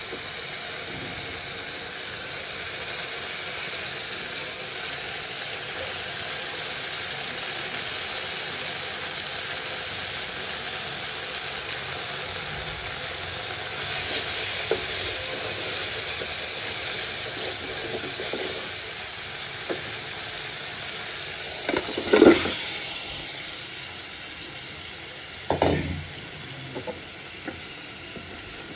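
Spice masala sizzling in an aluminium pot while it is stirred and scraped with a wooden spatula. Two louder clunks in the pot come in the last third, as pieces of goat meat go in.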